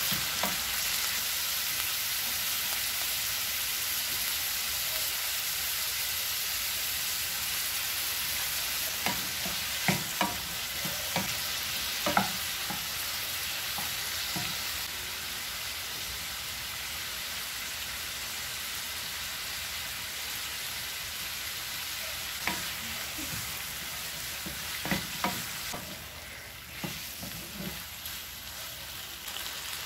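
Whole shrimp and diced onion sizzling in oil in a skillet, stirred with a wooden spatula that knocks and scrapes against the pan in clusters of sharp clicks, about ten seconds in and again near the end. The sizzle eases slightly as the shrimp become coated in sauce.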